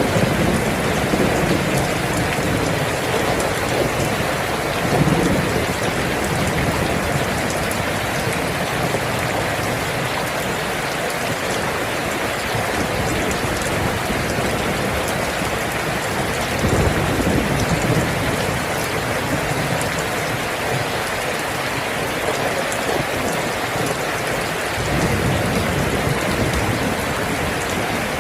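Steady, dense rain falling, with a few low rumbles of thunder rising under it now and then, the clearest about two-thirds of the way through.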